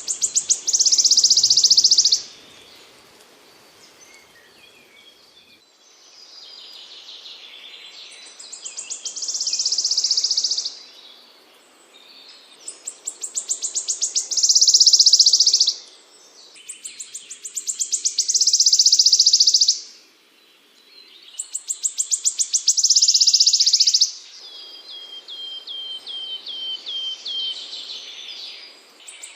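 A small songbird singing in repeated high phrases: rapid ticking notes that speed up into a loud, buzzy trill, each phrase about three to four seconds long and coming every four to five seconds. Near the end comes a run of short, falling notes, about three a second.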